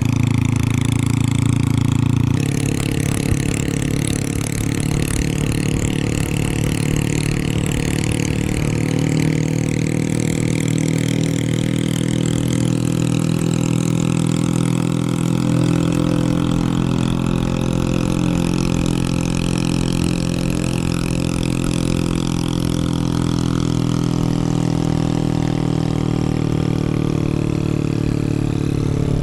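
Motorcycle engine running steadily under way, with wind and road noise. The engine note shifts about two seconds in, then rises and falls gently with the throttle.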